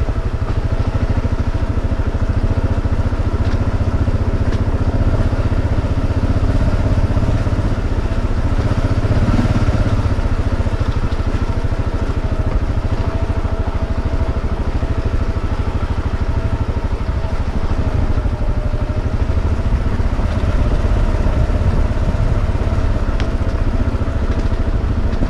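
KTM 690 single-cylinder motorcycle engine running at fairly steady, low revs as the bike rolls slowly down a rocky trail, its pitch dipping slightly a few times. A constant low rumble runs underneath.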